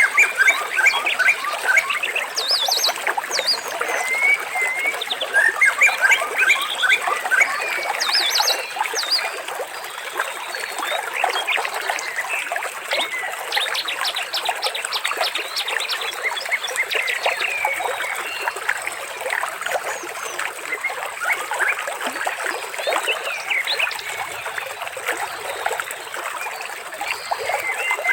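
A dense chorus of bird chirps and trills, many overlapping, over trickling water.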